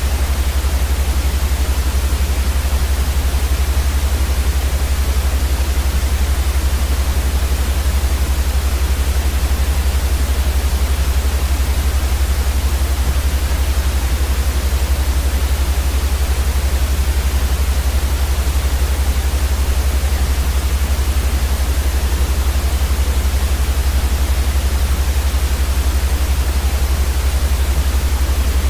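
Steady white noise: an even, unbroken hiss across the whole range, with a strong low rumble underneath that is the loudest part.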